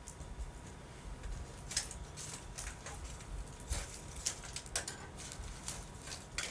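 Wood campfire crackling: irregular sharp pops and snaps, several in a few seconds, over a low steady rumble.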